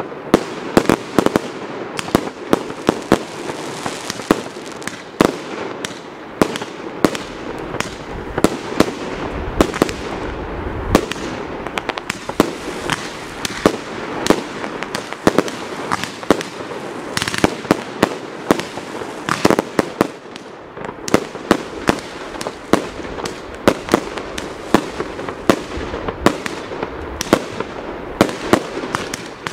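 Aerial fireworks bursting overhead in a rapid, uneven barrage of sharp bangs, several a second, with no pause.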